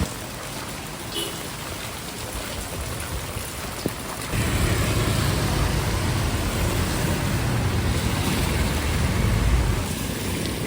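Heavy rain pouring steadily. From about four seconds in, a vehicle's engine runs close by and adds a low rumble.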